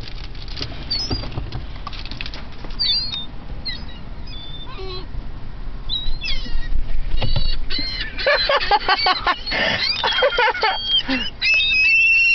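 Gulls calling: scattered short cries at first, then a loud burst of many overlapping squawks about eight seconds in, with a steady high tone near the end.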